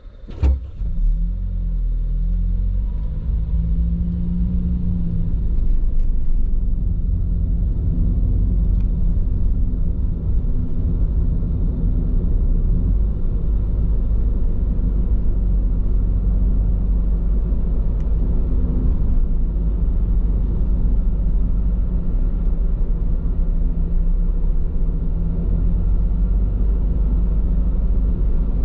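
Car on Bridgestone Regno tyres driving: steady low rumble of road and tyre noise. A sharp knock comes about half a second in, and the rumble quickly grows louder and then holds.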